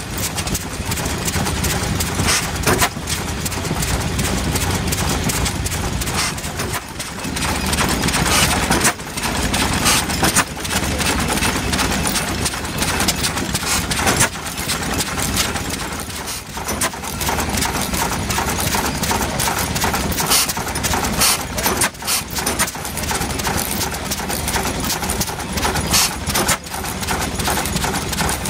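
Hornsby stationary engine running steadily, with a repeated knocking beat from its working parts.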